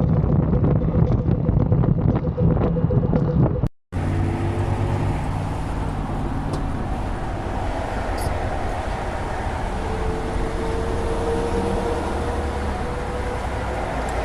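Car driving, recorded from inside: steady engine and road noise. It drops out briefly about four seconds in, as one dashcam clip cuts to another, then carries on.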